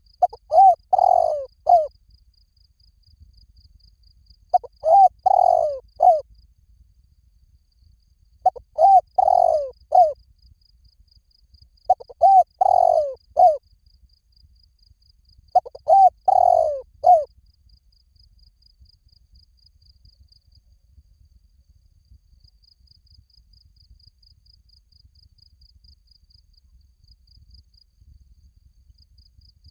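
Spotted dove cooing: five three-part coo phrases about four seconds apart, then a long pause near the end. A cricket chirps in a fast, faint, steady pulse throughout.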